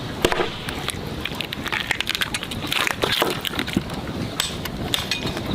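Water splashing and sloshing with irregular clicks and knocks, as of something being handled in water.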